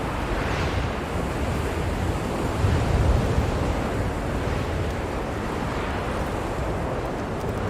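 Blizzard wind blowing steadily with a deep rumble, a gust swelling about three seconds in.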